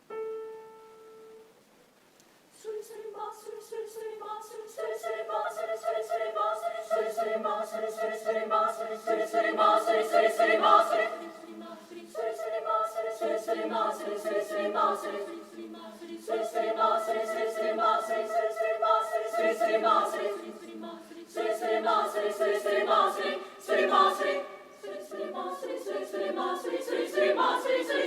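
Women's choir singing a lively Korean choral piece in several parts. A single starting note sounds at the very beginning, and the voices enter about three seconds in, singing in phrases with short breaks between them.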